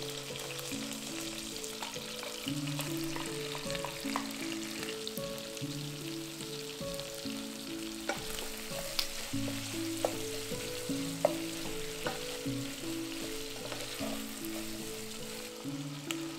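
Chicken and sliced onion sizzling in hot oil in a nonstick pot, with chopsticks and a wooden spatula stirring and now and then knocking sharply against the pot. A soft melody of held notes plays underneath.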